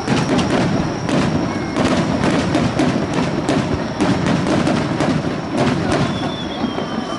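Aerial fireworks bursting in rapid succession: many sharp bangs over dense crackling, with a faint falling whistle near the end.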